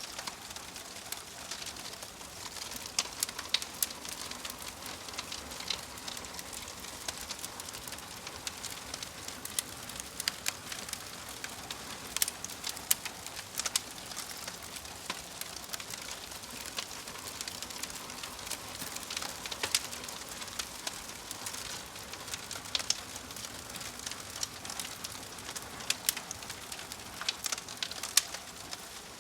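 Campfire crackling: a steady hiss with frequent sharp, irregular pops and snaps.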